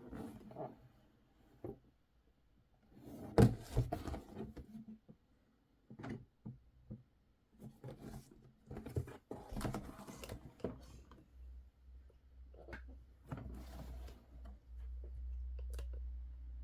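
Cardboard toy box being handled and turned over: scattered knocks and rubbing, with a loud thump about three and a half seconds in. A low steady hum starts about two-thirds of the way through.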